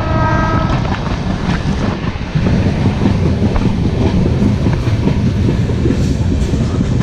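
Shatabdi Express passenger coach running on the rails, a steady rumble with clattering wheels, heard from the coach's open-doored vestibule. A steady horn note sounds at the start and stops within the first second.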